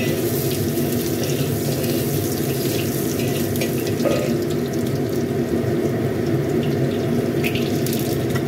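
Sliced ginger and crushed garlic sizzling steadily in hot oil in a wok, with a few light scrapes of a metal spatula stirring them.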